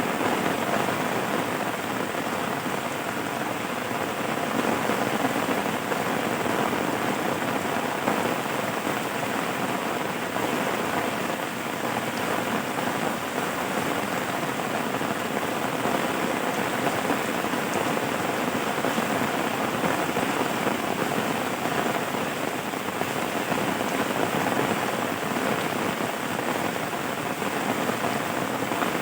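Steady rain falling and pattering on a surface, a dense even hiss of drops with no let-up.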